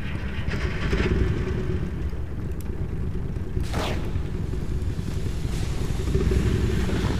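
Steady low rumble of an engine running in a layered post-apocalyptic ambience, with a short swoosh that falls in pitch nearly four seconds in.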